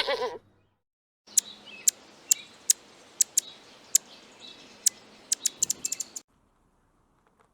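A bird giving short, sharp high chirps, irregularly spaced and coming faster near the end, over a background hiss; the sound starts about a second in and cuts off abruptly.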